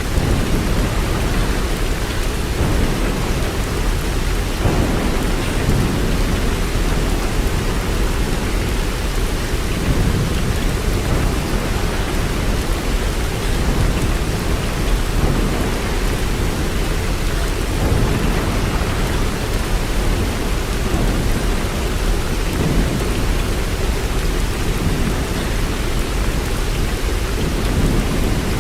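Steady heavy rainfall, an even hiss of drops, with a low rumble that swells up now and then every few seconds.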